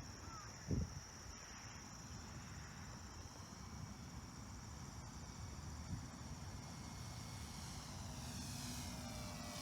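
Crickets chirping steadily, with a short low bump about a second in. Near the end the whine of an RC plane's electric motor comes in and grows louder, its pitch gliding down.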